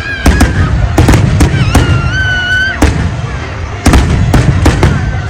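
Large aerial fireworks display: a rapid series of sharp bangs over a continuous low rumble. A high wavering tone comes in around two seconds in and holds for about a second.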